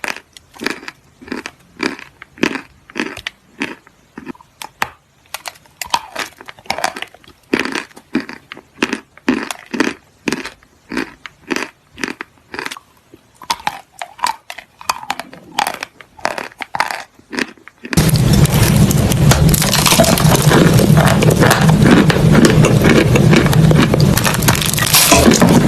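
Something being crunched over and over in short strokes, about two a second. About two-thirds of the way through, the crunching is suddenly replaced by a much louder, dense, continuous noise.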